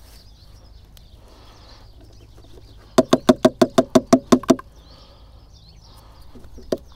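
A bird call: a quick run of about a dozen short notes, around seven a second, lasting under two seconds. A single sharp click comes near the end.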